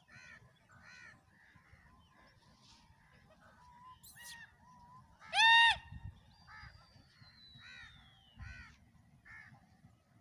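Birds calling: a string of short calls roughly once a second, one much louder about five and a half seconds in, with a thin whistle falling in pitch midway.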